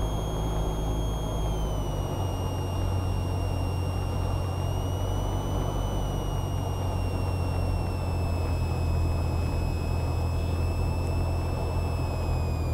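Cessna 172R's four-cylinder Lycoming engine and propeller droning steadily in the cockpit on final approach. A thin high whine above it steps down in pitch about a second and a half in and again near the end.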